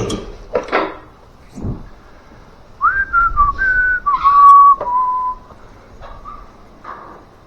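A person whistling a short run of a few notes, beginning about three seconds in and lasting a couple of seconds.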